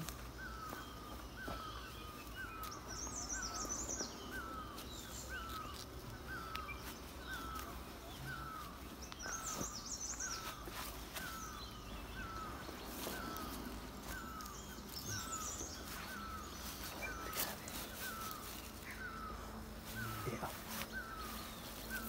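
A bird repeating one short call over and over, about three calls every two seconds, with faint higher chirps from other birds now and then. A few brief rustles are also heard.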